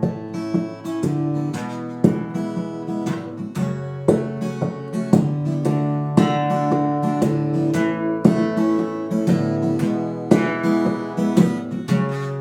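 Acoustic guitar strummed, chords struck repeatedly in a steady rhythm with no singing.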